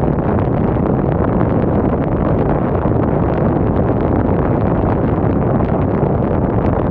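Wind blowing, a loud steady rumble with no let-up.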